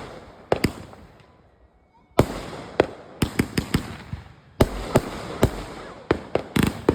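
Fireworks going off: two quick cracks near the start, then a loud bang a little over two seconds in followed by an irregular string of sharp cracks, each dying away with a short echo.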